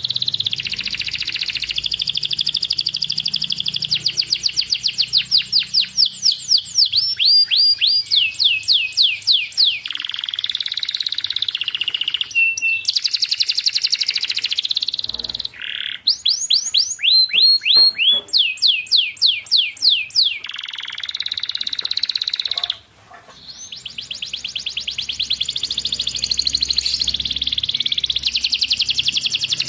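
Domestic canary singing a long song of rolled trills and tours of rapidly repeated downward-sweeping whistled notes, phrase after phrase with short breaks about halfway and two-thirds of the way through.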